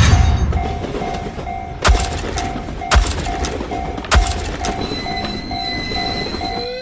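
Railroad crossing warning bell ringing in even pulses about twice a second over the rumble of a passing train, with three sharp knocks about a second apart in the middle.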